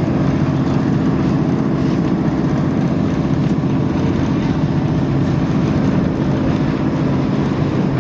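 Passenger train running steadily, heard from inside the carriage: a constant rumble of wheels and running gear with a steady low hum.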